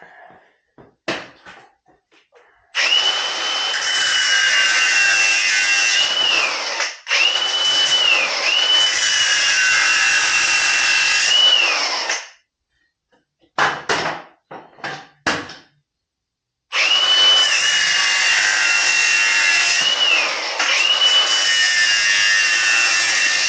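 A power tool cutting off the mounting clips on a cordless tool holder, run in three long passes of several seconds each. Its high whine sags in pitch each time the cut bites. Between the second and third passes come a few short knocks.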